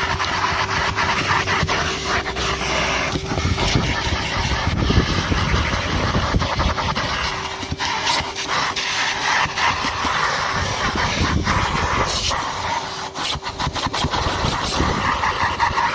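Numatic Henry HVR200-22 vacuum cleaner running steadily, its motor humming and air rushing through the hose, with occasional sharp clicks and knocks.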